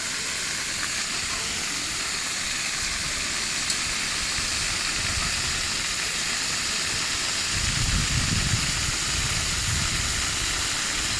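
Water rushing out of an open water-main pipe under line pressure: a steady hiss, with a low rumble swelling about eight seconds in.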